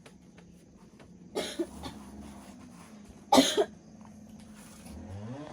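A person coughing twice, about two seconds apart, the second cough louder. Near the end a motor engine starts to be heard, rising and falling in pitch.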